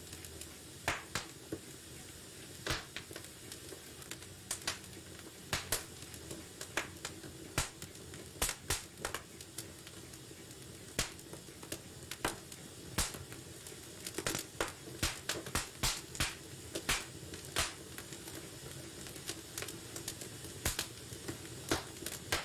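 Wood fire in a fireplace crackling: irregular sharp pops and snaps, coming thicker in the second half, over a steady low hiss of burning.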